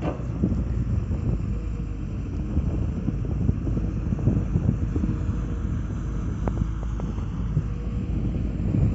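Wind buffeting the microphone in irregular low rumbles, over a steady engine running in the background.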